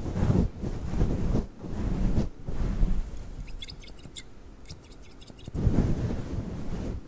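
Fluffy microphone cover rubbed and ruffled against the microphone, giving deep rustling swells. From about three and a half to five and a half seconds in, a run of quick, light scissor snips.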